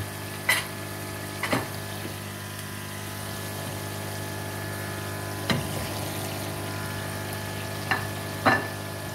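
Onion and turmeric masala frying in oil in a steel pot, a steady sizzle over a constant hum. About five short knocks come through it, two of them close together near the end.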